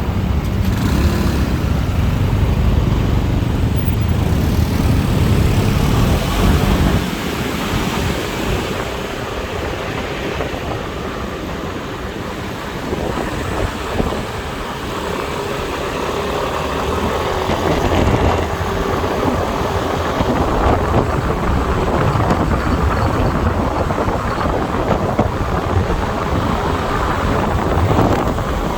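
Motorbike riding in city traffic: engine and road noise, with wind buffeting the microphone and a heavy low rumble for about the first seven seconds.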